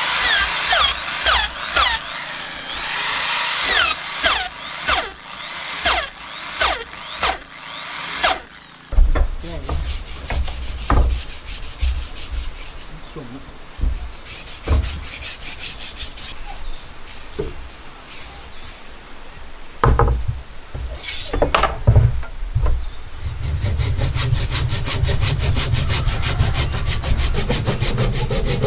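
Wood being sawn in repeated strokes, about one every second or less. After about eight seconds this gives way to scattered knocks on wood, and a steady low motor hum with rapid ticking comes in near the end.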